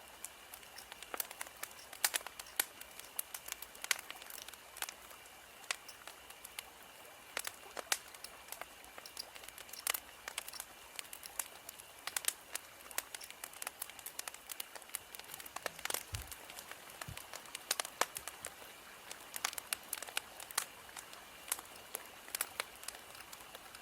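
Wood fire crackling: irregular sharp snaps and pops over a soft hiss, with two low thumps a little past the middle.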